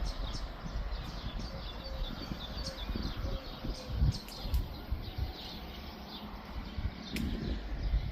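Small birds chirping rapidly and continuously, over an uneven low rumble.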